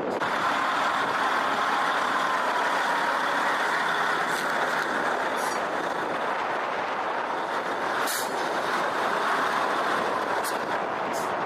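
Oshkosh HEMTT heavy military truck running steadily, with engine and drivetrain noise and a faint whine holding near one pitch. A few brief high ticks come in the second half.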